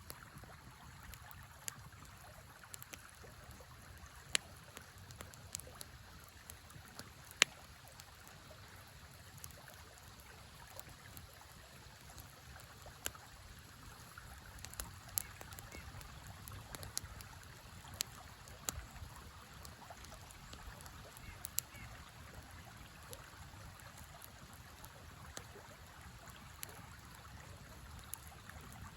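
Campfire crackling, with sharp irregular pops every second or so, over the steady rush of a river.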